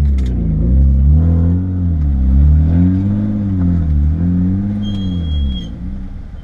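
Car engine running, its pitch rising and falling about once a second. The engine's low drone stops about five and a half seconds in, just after a short, high, steady beep.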